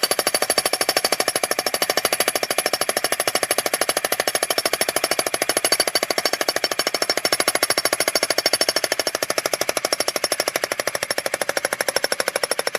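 Bosch Brute electric breaker hammer pounding on a geode rock in a fast, steady stream of blows, running on without a break.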